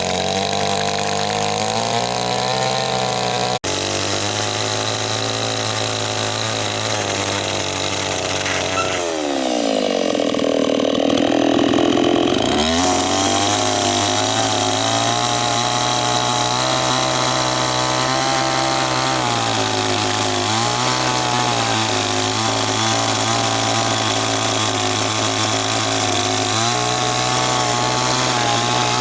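Chainsaw running steadily, its pitch sagging and climbing back once about ten seconds in, as when it is loaded in a cut and then frees.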